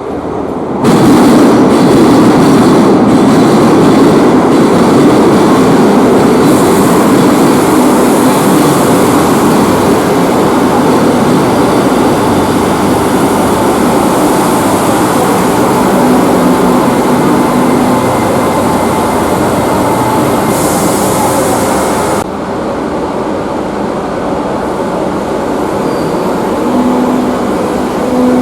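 Madrid Metro Line 5 train running through an underground station, a loud, steady rumble of wheels on rail. It rises suddenly about a second in and drops abruptly later on, with a faint tone appearing near the end.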